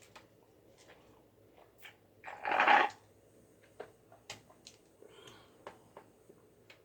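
Soft scattered clicks and mouth smacks of a person eating, with one short, louder breathy noise about two and a half seconds in.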